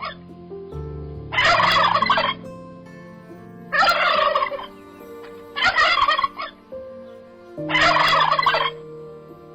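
An animal calling loudly four times, about two seconds apart, each call under a second long, over a steady low background of held notes.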